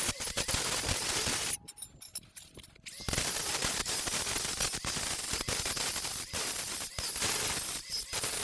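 Electric arc on sheet steel crackling and hissing. It stops for about a second and a half, then starts again and runs steadily.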